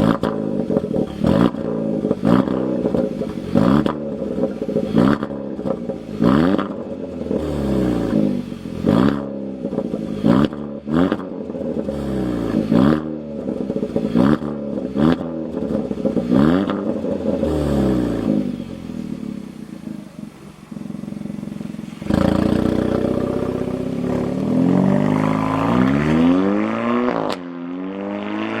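Kia K3 GT's 1.6-litre turbocharged four-cylinder heard through a custom dual variable-valve exhaust, blipped over and over at about one rev a second with sharp crackles. Around twenty seconds in it drops back, then near the end it revs in a few longer rising and falling sweeps.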